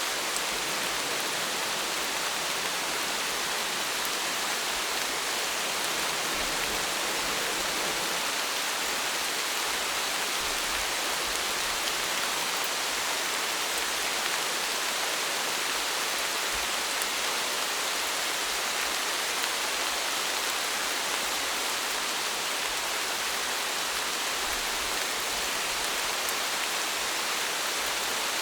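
Steady heavy rain: a dense, even hiss of falling rain with faint individual drop ticks.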